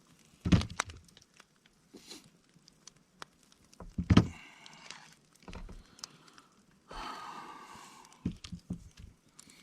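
Handling of camp cooking gear: two sharp knocks, one about half a second in and a louder one about four seconds in, with scattered clicks and rustling between.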